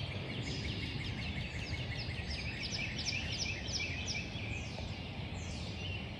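Woodland ambience: a bird sings a quick series of falling chirps, with a few longer falling notes near the end, over a steady low rumble.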